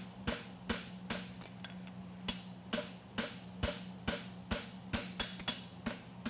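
Hand hammer striking a hot steel horseshoe on an anvil in a steady rhythm, about two blows a second with lighter taps between, over a steady hum. He is going back over the forge weld at the toe to close the seams and work out bubbles.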